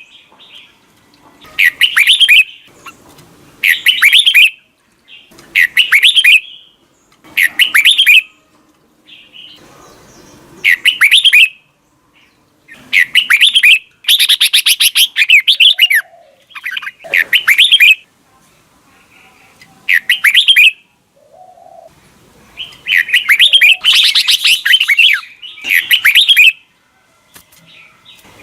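Red-whiskered bulbul singing: short, loud, warbling phrases repeated about every two seconds, running into a longer cluster of phrases near the end.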